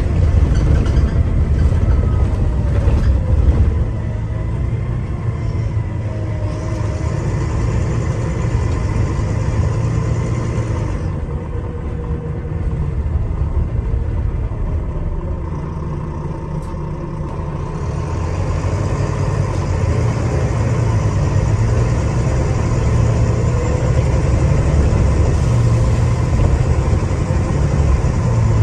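Diesel engine of a Volvo B9TL double-decker bus, heard from inside as the bus drives, a steady low rumble with the engine note rising and falling through the gears. It is loudest in the first few seconds, eases off in the middle, and builds again later on.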